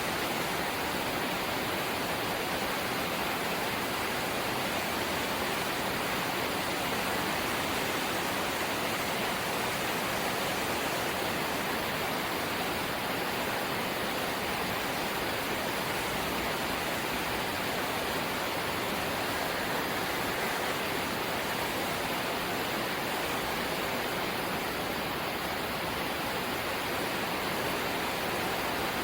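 Steady rain falling on a corrugated zinc (seng) roof, an even, unbroken hiss.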